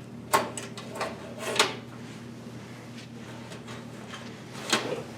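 Hard-drive trays being slid out of and back into a PC case's drive cage: scraping and sharp clicks, with three louder knocks, near the start, at about a second and a half, and near the end.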